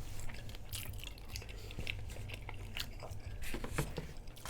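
A person chewing nachos made with Doritos chips, with scattered small crunches.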